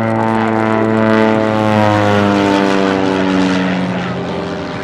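Propeller aerobatic airplane flying past, its engine drone sliding steadily down in pitch as it passes, then fading.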